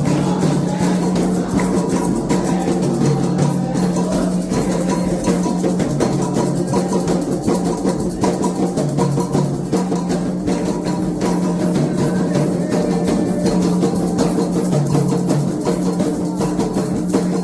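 Candomblé ritual drumming: atabaque hand drums playing a fast, continuous rhythm with dense, even strokes.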